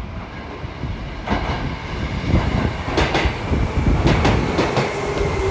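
Train running on rails: a low rumble with several sharp clacks from the wheels.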